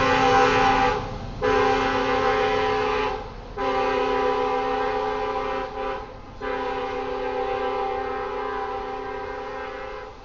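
Locomotive air horn blowing a chord in separate blasts: two long, a short one about six seconds in, then a final long blast that cuts off at the end. The long-long-short-long sequence is the grade-crossing signal, sounded by the lead locomotive, an EMD SD70ACe.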